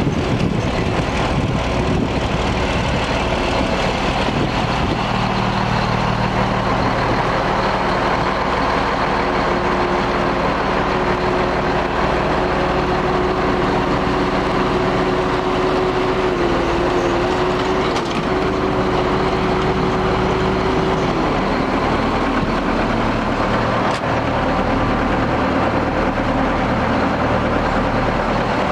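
Skid steer loader's engine running steadily, with a higher whine over it that drops away about three-quarters of the way through.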